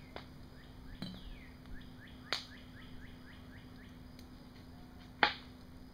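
A songbird singing a run of quick down-slurred chirps, about four a second, for a couple of seconds. A few sharp clicks sound over it; the loudest comes about five seconds in.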